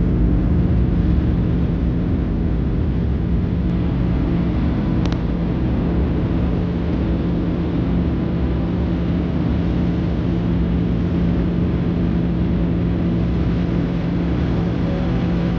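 Steady cabin drone inside a Boeing 737-700: engine and airflow noise with a low, even hum.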